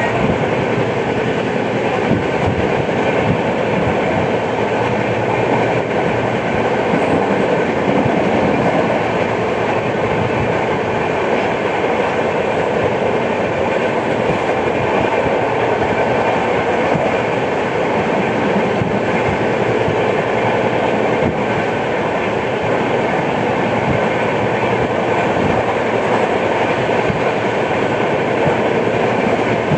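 Express passenger train's coach wheels running over the track at speed, heard from aboard: a steady rumble and rattle with clickety-clack from the rail joints.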